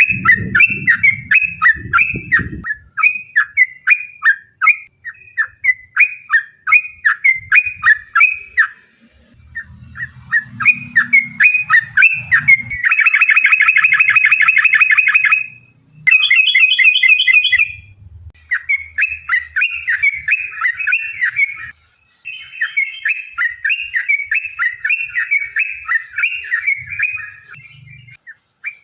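Yellow-vented bulbul (trucukan) singing loudly: repeated bubbling phrases about twice a second, then from about halfway long, fast rolling trills ('ropel') and rapid chattering runs, the excited song used as a lure to set other bulbuls singing.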